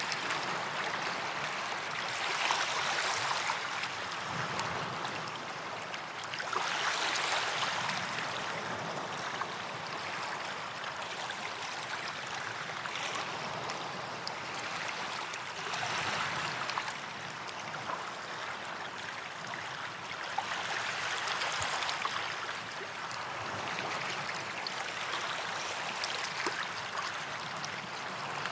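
Small waves washing onto a sandy beach, each swell breaking and rushing up the sand every few seconds, with a fizzing hiss as the water drains back.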